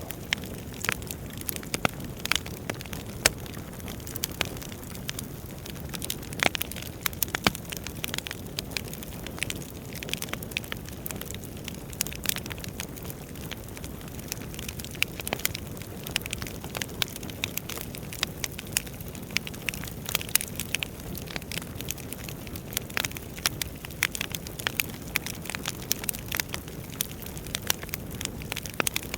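Wood fire burning in a fireplace: a steady low rush of flame with irregular sharp crackles and pops from the logs, several a second.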